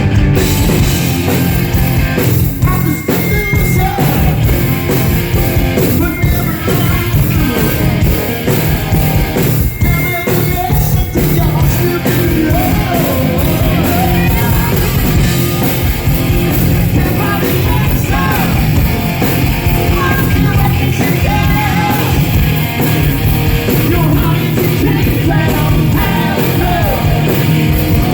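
Live hard rock band playing loud with a singer: distorted electric guitars, bass and drums under lead vocals, without a break.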